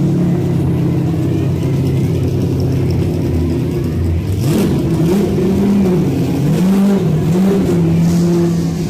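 A historic Group A/C touring car's engine idling with a steady note, revved up and down three or four times about halfway through, then settling back to idle.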